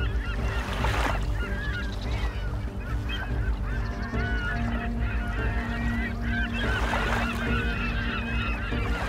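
A flock of birds calling over one another in many short, overlapping calls that bend up and down in pitch, over a steady low hum.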